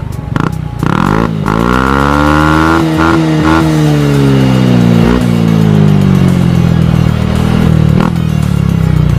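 Yamaha NMAX 155 scooter's single-cylinder engine breathing through a Rob1 aftermarket exhaust, revving up quickly about a second in and then winding slowly back down.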